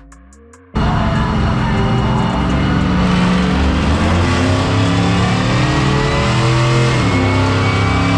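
Loud car engine running at high revs, cutting in abruptly about a second in and held steady.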